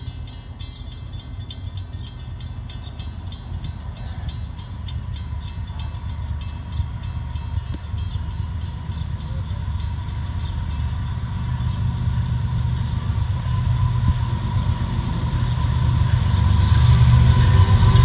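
Canadian Pacific GE ES44AC diesel locomotive hauling an intermodal train, approaching; its engine rumble grows steadily louder as it nears. A level-crossing bell rings rapidly and evenly in the background.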